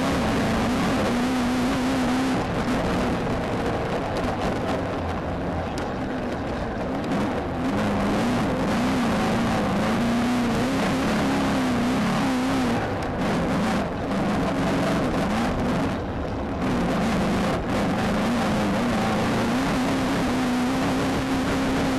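Off-road racing Volkswagen Beetle's engine, heard from inside the car at speed, its pitch rising and falling with the throttle over a steady rush of tyre and terrain noise. The sound dips briefly a few times in the second half.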